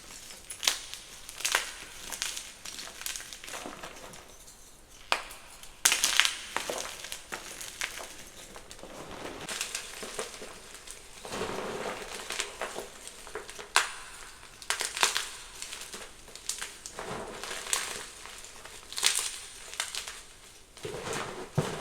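Crunchy gym chalk being crushed: an irregular run of crunching and crumbling, with a few sharper cracks.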